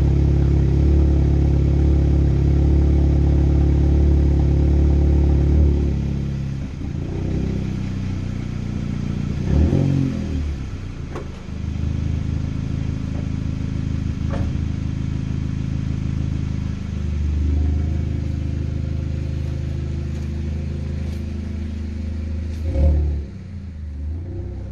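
Seat Ibiza Cupra's 1.8 TSI turbocharged four-cylinder, with its middle silencer removed, running after a cold start. It idles loudly at first, settles to a lower, quieter idle about six seconds in, and is revved briefly twice, about ten seconds in and near the end.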